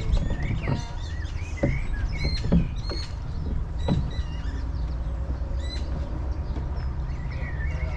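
Wind rumbling on the microphone in a rowing boat, with birds chirping throughout and a few knocks from the oars in the first half.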